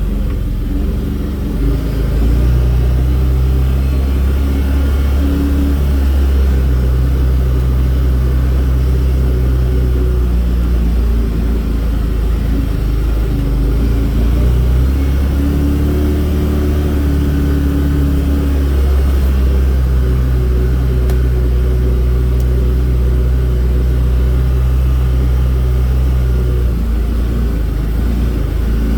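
Vehicle engine running steadily while driving, heard from on board, with its note shifting a few times as the speed changes.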